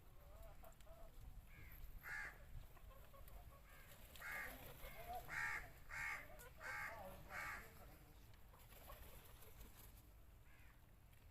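Harsh bird calls: one call about two seconds in, then a run of five evenly spaced calls.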